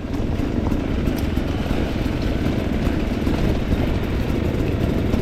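Off-road enduro motorcycle engine running at low, fairly steady revs.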